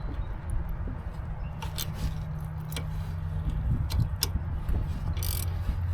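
A steady low vehicle rumble, with a faint steady hum for a few seconds and a scattered scatter of light clicks and taps.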